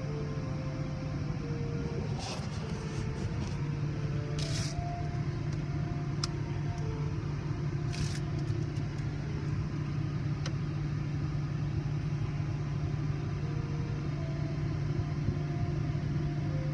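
Steady low hum of a car idling, heard from inside the cabin. A few brief hisses come about two, four and a half, and eight seconds in.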